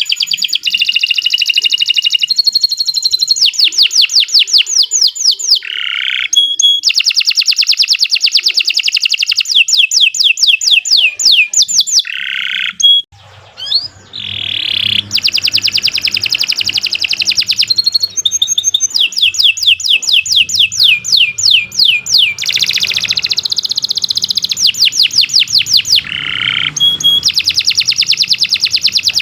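Domestic canary singing a long, loud song of fast trills, each a run of rapidly repeated notes changing from phrase to phrase, broken by short pauses and one clear break about halfway through.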